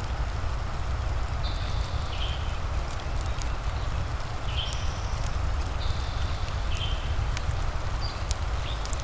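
Fireplace crackling in sharp scattered pops over a steady low rumble and a hiss of rain, with short high chirping animal calls repeating every second or so.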